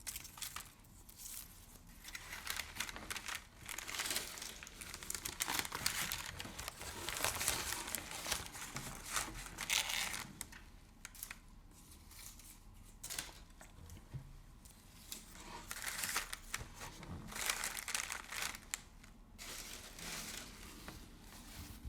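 Crinkly material crumpled and rubbed by hand, rustling in uneven waves of a second or two at a time.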